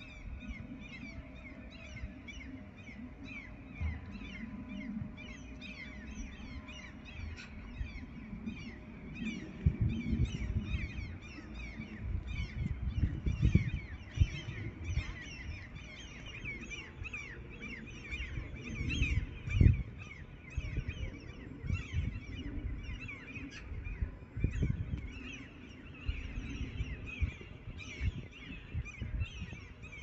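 A flock of birds calling without pause, many short, downward-sliding calls overlapping, over a low rumble that swells in gusts.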